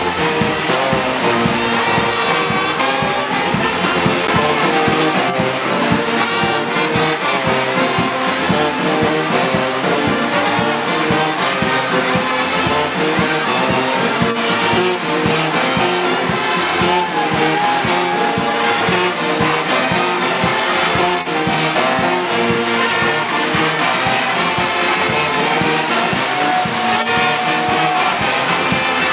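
Brass band playing music continuously, with trombones and trumpets carrying sustained notes.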